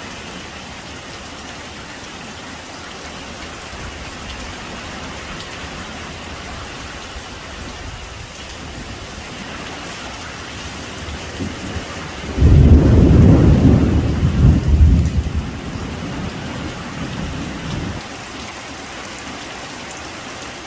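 Heavy rain falling steadily. About twelve seconds in, a loud thunderclap breaks and rumbles for several seconds before dying away.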